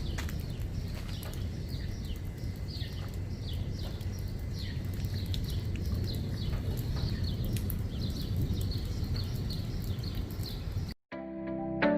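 Birds chirping, a steady run of short downward chirps, over a low rumble of wind on the microphone. About eleven seconds in the sound cuts off and music begins.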